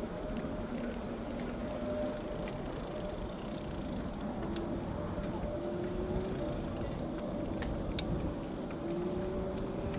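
E-bike being ridden: a steady rushing noise with a faint whine that rises in pitch a few times, and a couple of sharp clicks.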